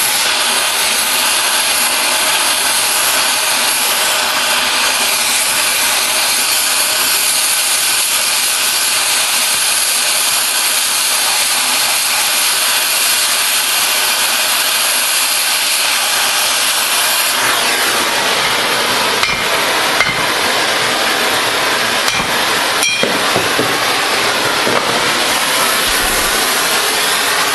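Oxy-fuel cutting torch cutting through steel railroad rail: a loud, steady hiss from the cutting jet. The sound changes character about two-thirds of the way through, and a few sharp pops follow.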